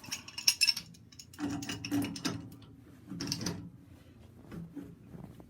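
Metal clicking and scraping in three short bouts, with a few faint clicks near the end, as a 90-degree pipe coupling on a boiler's pressure relief valve line is unscrewed.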